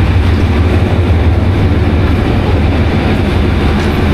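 Diesel train locomotive running steadily close by, a loud, even low hum with a rumble of noise above it.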